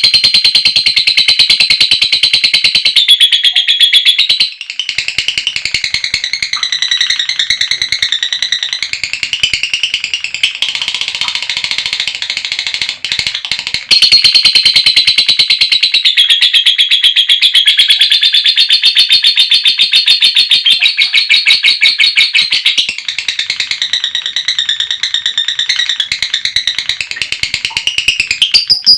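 Female lovebird chattering in one long, unbroken run of very rapid, high-pitched notes: the "ngekek panjang" call. It drops in loudness a few seconds in and comes back up around halfway.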